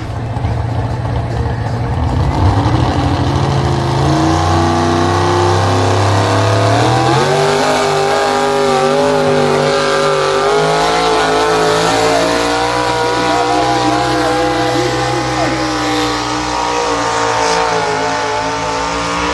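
Pulling tractor's engine working hard under load as it drags the weight sled down the track. Its pitch rises in steps over the first seven seconds, then holds steady at high revs until it is shut down at the end.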